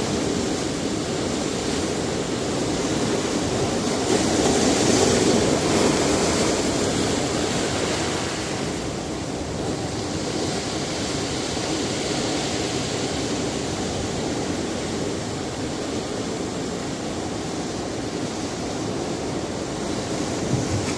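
Sea surf breaking on a rocky shore: a continuous rush of waves that swells as a wave breaks about four to six seconds in, then eases to a steadier, softer wash.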